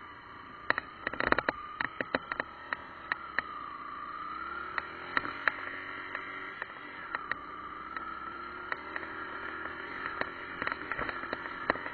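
Single-cylinder engine of a Yamaha dual-sport trail bike running under way, its pitch slowly dipping and rising with the throttle. Many sharp clicks and knocks come from the bike and camera rattling over the bumpy, sandy ground, thickest at the start and near the end.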